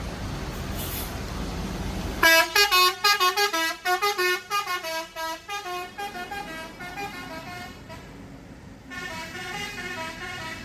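Bus's multi-tone musical horn (an Indonesian 'telolet' horn) played as a rapid run of short stepping notes, starting about two seconds in and fading over about five seconds, then a second, shorter tune near the end. Before it starts, a steady low rumble of engine and road noise.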